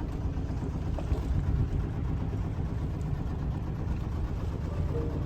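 Sailboat's engine running steadily while motoring, a continuous low rumble.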